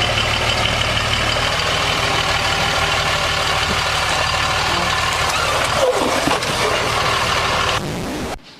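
Motor vehicle engine running steadily, then cut off abruptly near the end.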